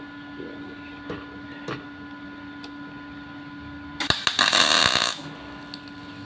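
Arc welder tacking stainless steel: about four seconds in, roughly a second of loud crackling arc, over a steady low hum. A few light knocks come in the first two seconds.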